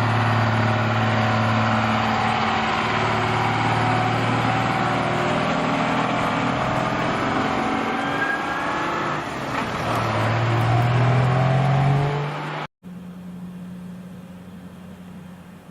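Heavy truck's diesel engine pulling hard, its note climbing, falling back once about two-thirds of the way through as it changes up a gear, then climbing again. It cuts off abruptly, and a quieter, steady engine hum follows.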